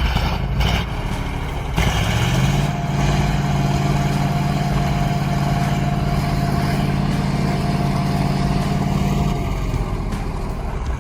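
A heavy vehicle's engine working hard: its revs climb about two seconds in, hold steady, then drop near the end.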